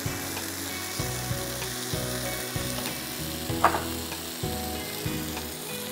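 Marinated chicken breasts sizzling in hot oil on a ridged grill pan, with a single sharp click about two-thirds of the way through. Soft background music plays underneath.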